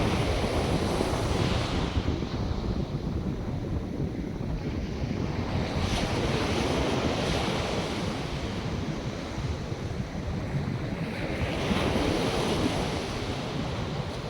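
North Sea surf breaking and washing ashore, three waves swelling and falling back, under a steady low wind rumble on the microphone.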